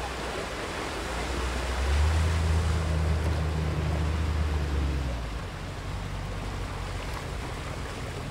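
Ocean waves washing in, a steady surf hiss with a low surge that swells about two seconds in and fades about three seconds later.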